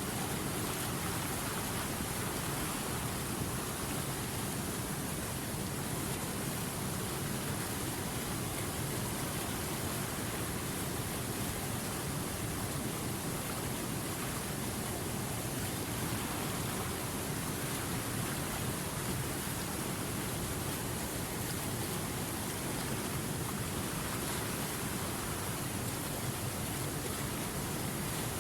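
River water rushing steadily over rapids, a constant even rush with no breaks or separate splashes.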